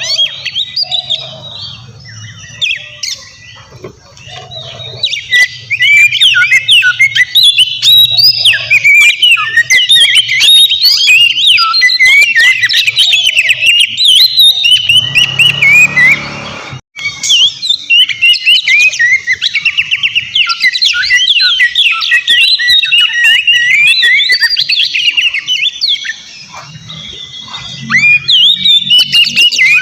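Oriental magpie-robin (kacer) singing a loud, busy, unbroken song of rapid chirps and quick whistled notes sliding up and down. The song cuts out for an instant about two-thirds of the way through.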